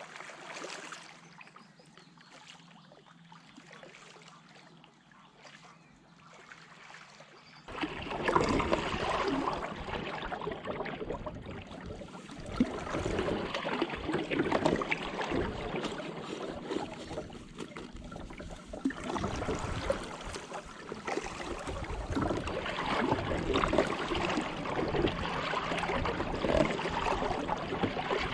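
Kayak paddling: water splashing and trickling off the paddle blades, with the hull moving through the water. It gets suddenly louder and rougher about eight seconds in, then swells and eases with the strokes.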